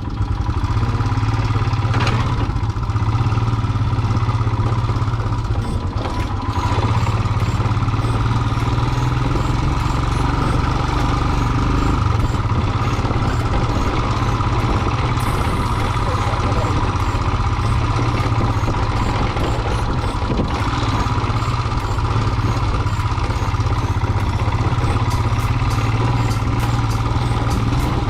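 Royal Enfield single-cylinder motorcycle engine running steadily while riding a rough off-road track, with a few sharp clattering knocks along the way.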